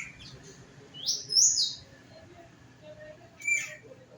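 Birds chirping: short, high, quickly sweeping chirps, two close together about a second in and one more near the end.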